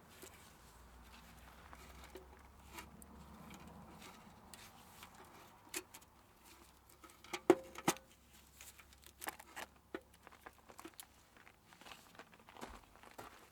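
Scattered light clicks and taps of hand tools and parts being handled, with a few sharper knocks about halfway through.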